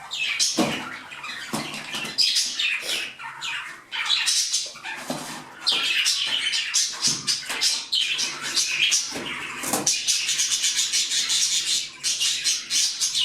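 German giant rabbits chewing their food, a loud, fast crackling rattle of crunches that grows denser in the second half.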